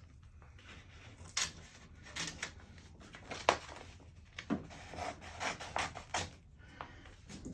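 Vinyl decal backing paper being cut and handled: irregular rustling and crinkling with a sharp click about three and a half seconds in.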